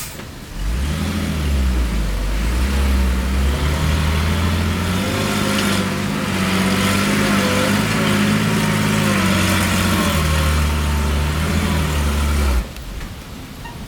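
Heavy diesel engine of earth-moving machinery revving up about half a second in and running hard at high revs, its pitch wavering slightly, then stopping abruptly near the end.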